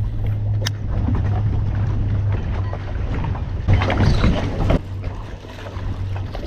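Strong wind buffeting a chest-worn microphone through its wind muff, over a steady low hum, with a louder rough rush about four seconds in.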